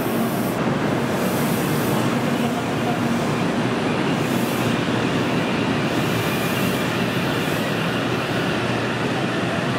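N700-series shinkansen pulling out of the station, a steady sound of motors and wheels as it moves off past the platform.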